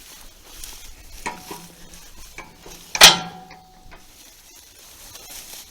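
Metal clicking and clanking from an old hay rake's gear mechanism as it is worked by hand to try to shift it out of gear, with one loud ringing metal clank about three seconds in.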